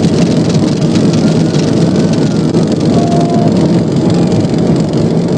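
Police patrol car running at highway speed, its engine, tyre and wind noise loud and steady inside the cabin.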